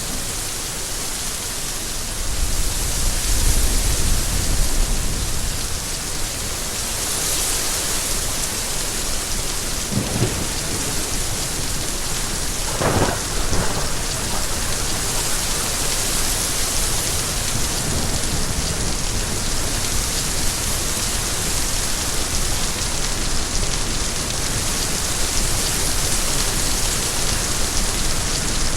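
Steady heavy rain falling, with a low rumble of thunder rolling a few seconds in.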